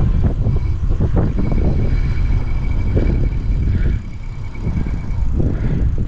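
Wind buffeting the microphone on an e-bike ride, a dense low rumble. A faint, thin, steady whine sits over it from about half a second in to about five seconds.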